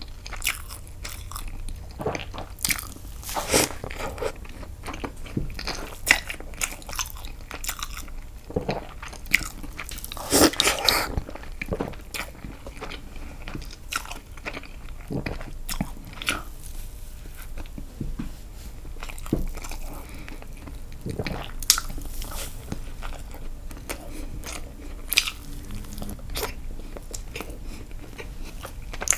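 Close-miked chewing and biting of castella sponge cake dipped in milk: irregular mouth smacks and clicks, with a busier cluster about ten seconds in.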